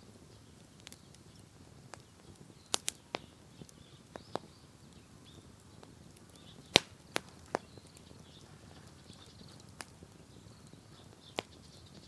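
Wood bonfire crackling: irregular sharp pops and snaps from the burning wood, the loudest about seven seconds in, over a faint steady background.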